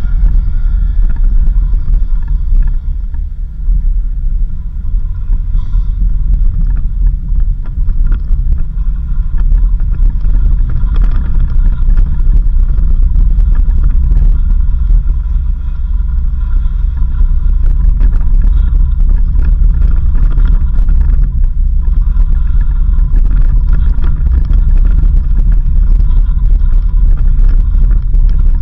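A vehicle driving on a dirt road: a loud, steady low rumble of engine and road noise.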